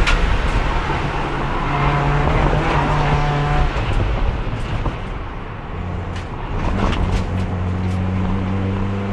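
Race car engine heard onboard, held in fourth gear because the transmission is failing. It runs under load, eases off around the middle, then pulls again with its pitch slowly climbing. A few sharp clicks or ticks come in between.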